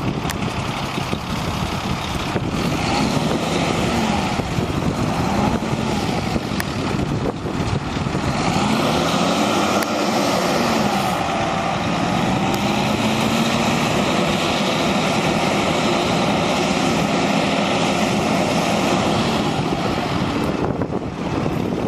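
Diesel engine of a 1997 International 2674 crane truck running, its pitch rising and falling over and over as the engine speeds up and slows down.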